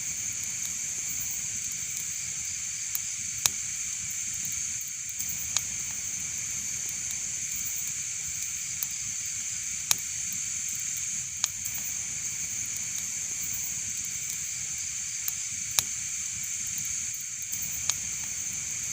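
Wood fire burning with a steady hiss and sharp crackling pops, a loud snap every few seconds among fainter crackles.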